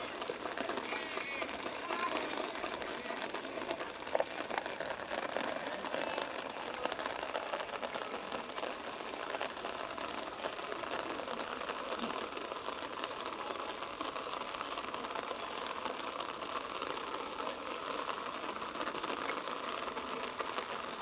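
Indistinct calls and shouts of rugby players over a steady outdoor hiss, with one sharp knock about four seconds in.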